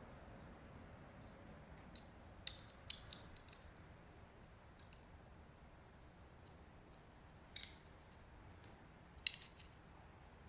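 Faint, scattered sharp clicks and taps of a Ford Focus smart key fob's plastic casing and coin-cell battery being handled and fitted back together, about seven clicks spread unevenly.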